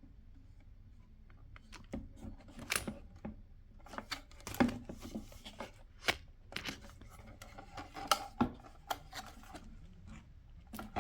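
Plastic center console parts of a Lexus RX330 being handled and fitted together: an irregular series of light clicks, knocks and rubbing scrapes, with the sharpest knocks about four and eight seconds in.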